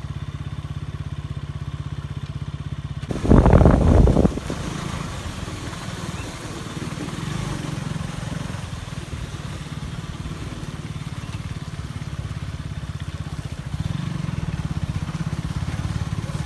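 KTM Duke 200's single-cylinder engine running steadily, with a loud burst of noise a little over three seconds in. After that the engine keeps running under a wider rushing hiss, like wind and road noise while riding.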